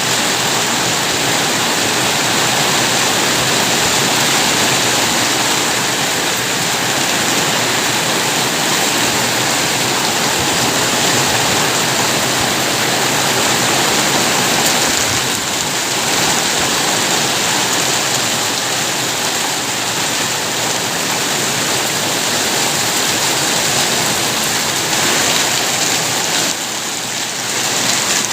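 Steady heavy rain falling, a dense even hiss of drops with a slight dip in loudness near the end.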